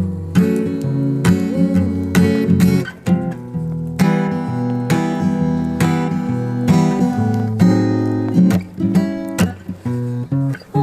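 Acoustic guitar playing an instrumental passage, strummed and picked chords in a steady rhythm.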